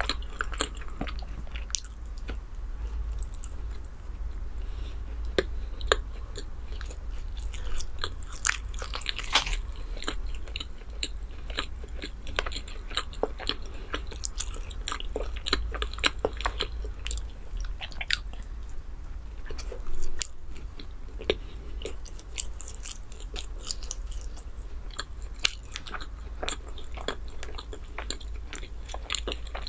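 Close-miked chewing and biting of soft chocolate bread, full of small wet mouth clicks, with a steady low hum underneath.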